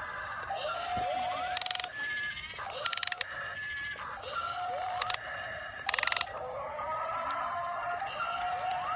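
Small electric motors of a YiGong RC toy excavator whining as they are driven, each rising in pitch as it spins up and then holding steady, several times over. There are short bursts of rapid clicking about four times.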